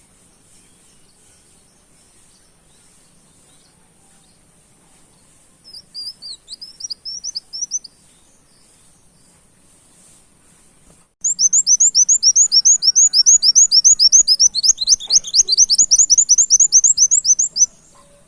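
Kolibri wulung sunbird singing: a short burst of high chirps, then a long, loud, rapid trill of repeated high sweeping notes, several a second, in the canary-like 'tembak' style.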